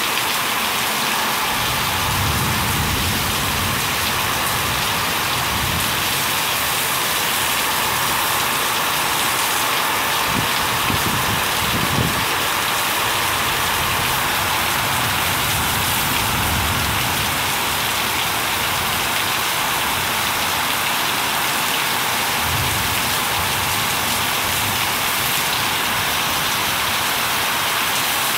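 Heavy rain pouring down steadily onto a paved street: a dense, even hiss of water hitting the road, with a few brief low rumbles.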